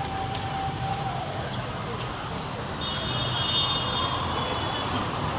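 Heavy rain falling steadily on a street with traffic running. A held horn tone stops about a second in, and a higher, shriller horn sounds for about two seconds in the middle.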